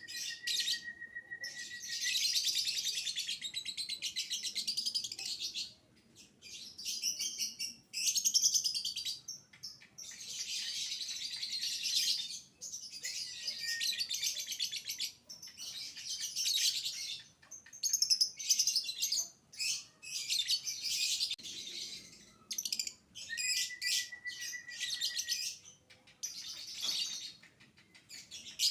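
Lovebird singing its long chattering trill (ngekek) in the violin style, in high-pitched bouts several seconds long broken by short pauses.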